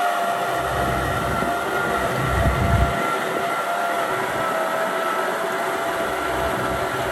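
Kubota M6040 tractor's diesel engine running steadily under ploughing load, with a steady whine over a low rumble that swells briefly about two and a half seconds in.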